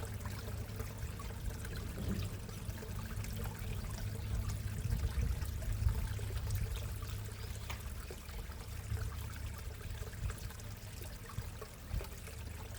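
Water trickling and splashing steadily into a backyard koi pond, with a low steady rumble underneath.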